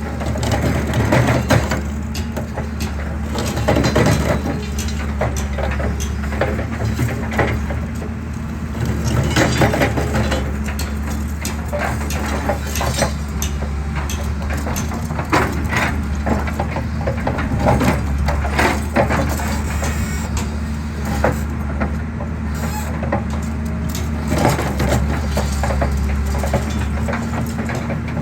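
Excavator engine running steadily under load while its attachment crushes concrete, with irregular cracking and crunching throughout.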